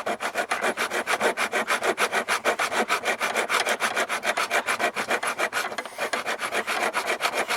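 Hand saw cutting through the plastic heater-core housing with quick, even back-and-forth strokes, with a brief pause about six seconds in.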